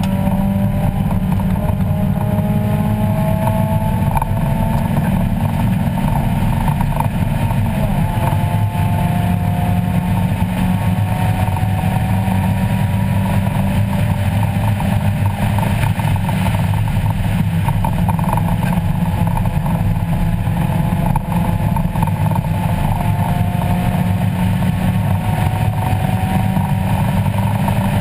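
A 1994 Mazda Miata's 1.8-litre four-cylinder engine is heard from inside the cabin under hard track driving. The revs climb in long pulls and drop back at each gear change, over loud road and wind noise.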